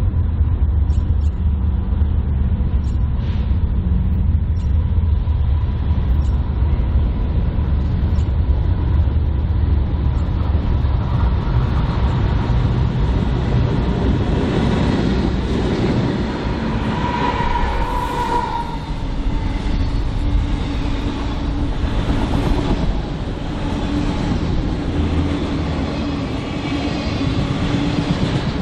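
Freight train rolling past: a steady heavy rumble of cars on the rails with wheel clatter, and a brief high-pitched tone a little past halfway.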